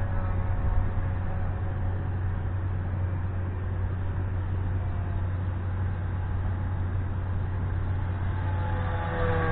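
Wind buffeting the microphone with a steady low rumble, under the whine of a small RC airplane's electric motor and propeller. The whine is faint through the middle and comes back louder near the end, dropping in pitch as the plane passes.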